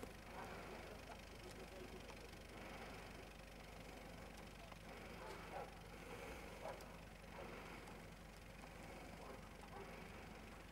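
Faint, steady low engine hum of an SUV crawling through deep snow, with a few faint short sounds over it.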